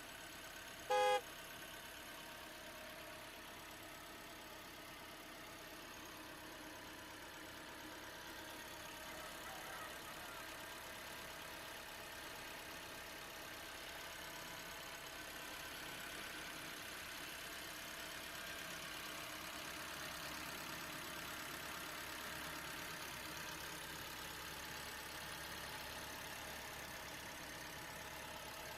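Remote-control boat and truck motors running steadily, with several steady tones like an engine idling. A short, loud horn-like beep sounds about a second in.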